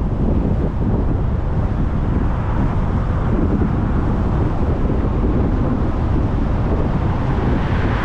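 Steady road noise from a vehicle driving along: an even din of tyres and wind, heaviest in the low end, with no distinct events.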